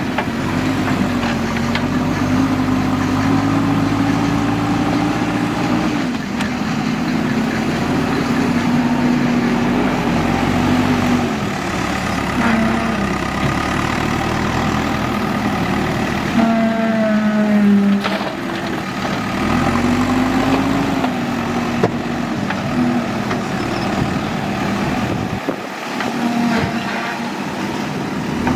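Diesel engine of a JCB 3DX backhoe loader working, its pitch rising and falling repeatedly as the machine loads and relaxes.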